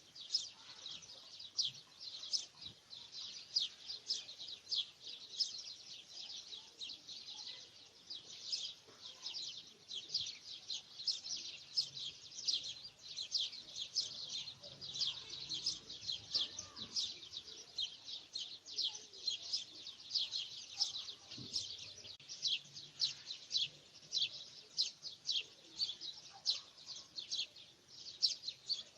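Birds chirping without a break: a dense run of short, high chirps, several a second.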